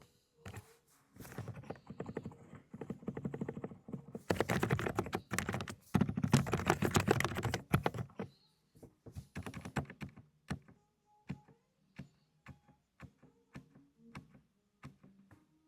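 Fast typing on a Dokgeomi mechanical keyboard with low-noise cotton-candy switches: a quick run of muted keystrokes for several seconds, then slower single keystrokes with pauses.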